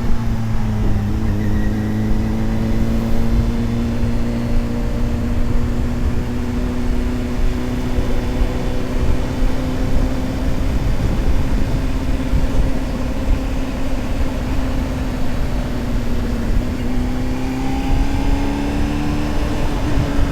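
Honda CBR600RR's inline-four engine running at a steady cruise with wind rushing over the rider, its pitch dipping slightly about a second in and rising again under throttle from about seventeen seconds in.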